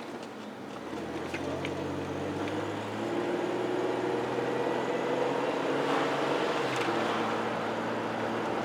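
Car engine running, growing louder about a second in, with its note shifting around three seconds in and again near seven seconds.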